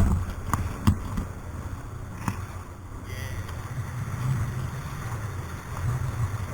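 Jet ski engine running with a steady low rumble, with a few short knocks.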